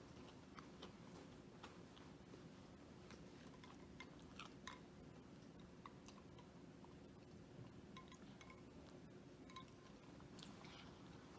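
Faint chewing and small wet mouth clicks of someone eating, scattered irregularly over a low steady hum.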